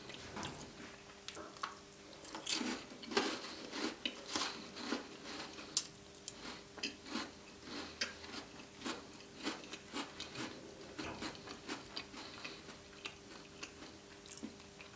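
Close-miked chewing of an original Tim Tam chocolate biscuit: irregular small crunches and mouth clicks as the wafer biscuit is bitten and chewed.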